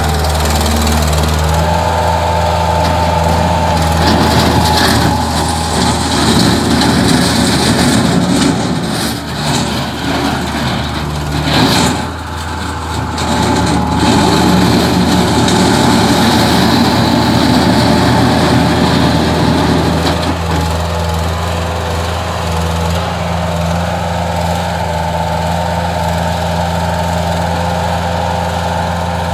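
Bobcat 753 skid-steer loader's engine running steadily. It turns rougher and busier through the middle stretch, with a brief dip about twelve seconds in, then settles back to an even run.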